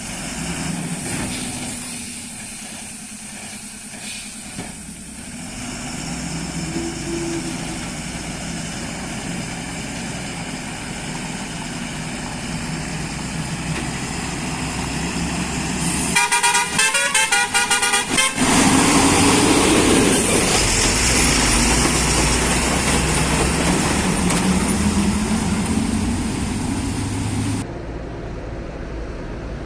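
Heavy lorry engines running under load, with a horn sounding for about two seconds midway. Afterwards the engine noise grows louder and one engine revs up, its pitch rising.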